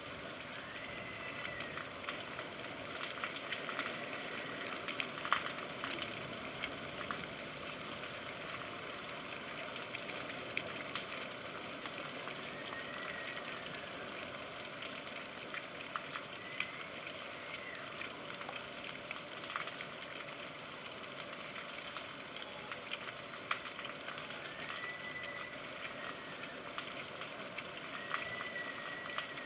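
Rain falling steadily, a dense even hiss with many small drop clicks through it. A faint high tone rises and falls briefly a few times.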